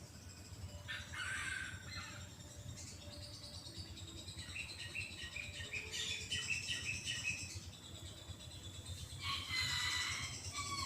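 Birds chirping and calling: a short burst of calls about a second in, a run of quick repeated chirps in the middle, and another burst near the end.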